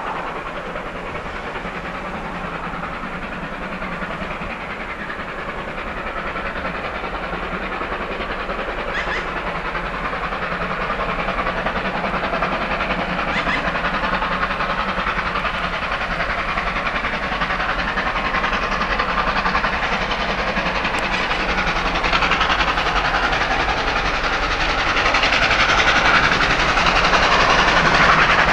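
Steam-hauled train running along the line: steady running and rail noise that grows gradually louder, loudest near the end.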